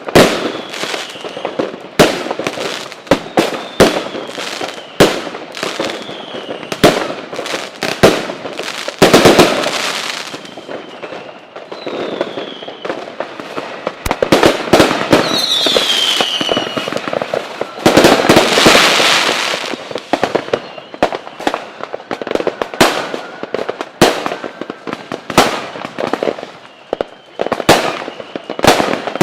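Fireworks display: a long run of sharp bangs from bursting shells, with dense stretches of crackling and a few falling whistles, one about twelve seconds in and one about sixteen seconds in.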